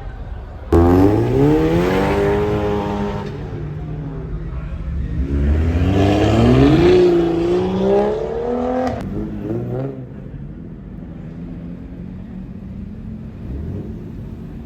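Car engine accelerating hard: it comes in suddenly about a second in, climbs in pitch, then climbs again a few seconds later before dying away to a low steady rumble.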